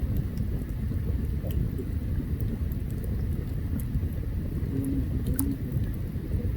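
Open campfire burning, with scattered sharp crackles and pops over a steady low rumble.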